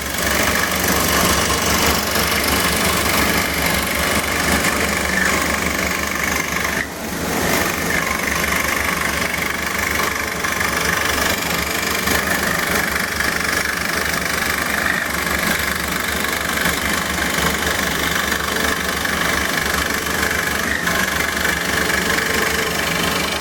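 Bandsaw running steadily while cutting wood, with a brief dip about seven seconds in.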